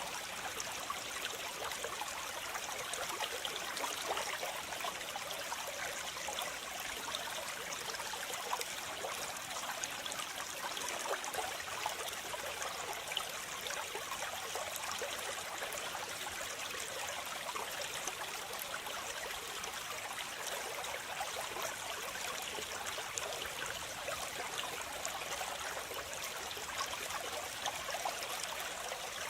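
Waterfall: water falling and splashing in a steady, even rush, bright and hissy with little deep rumble.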